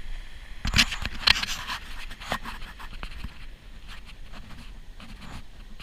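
Handling noise on the camera: a cluster of sharp scrapes and knocks about a second in, then fainter rubbing and scraping.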